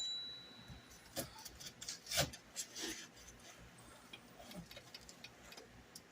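Knife cutting onions on a cutting board: a few sharper knocks, then lighter irregular taps. A high metallic ring fades out at the very start.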